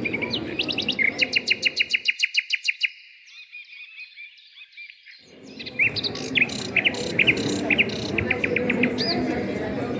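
Songbirds chirping. A fast trill of evenly repeated high notes is followed by a quieter pause, then scattered short chirps and another brief trill.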